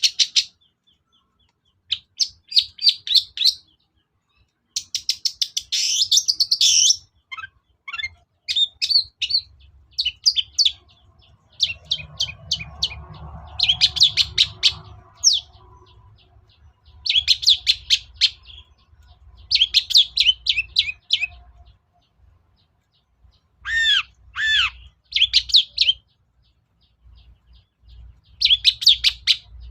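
Long-tailed shrike (cendet) singing in repeated bursts of fast, high chattering notes with short pauses between phrases. Near the end come a few louder curved whistled notes.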